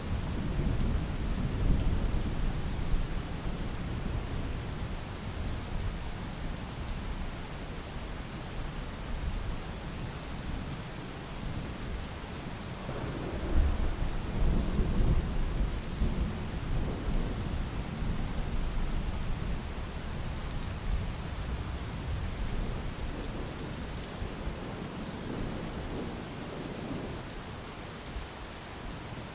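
Steady heavy rain hissing, with low rolling thunder rumbling underneath, swelling near the start and again about halfway through.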